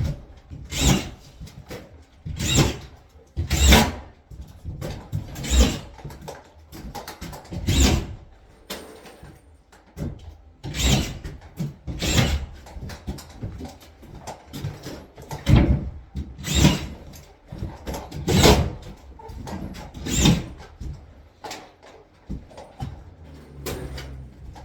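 Irregular scraping knocks, about one every second or two, from a drywall sheet being handled and fitted into place.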